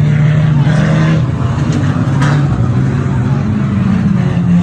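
Engines of 2-litre banger cars running during a demolition derby, a loud steady engine drone whose pitch rises and falls slightly.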